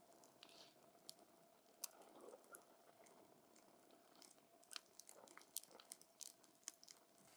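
Wood campfire burning with a quiet crackle: scattered sharp pops and snaps, coming more often in the second half.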